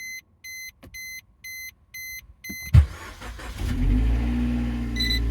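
A dashboard chime beeps five times. Then the Suzuki Swift Sport ZC32S's 1.6-litre inline-four engine cranks briefly and fires, nearly three seconds in, and settles into a steady idle through an HKS Legamax Premium aftermarket exhaust. A single short beep sounds near the end.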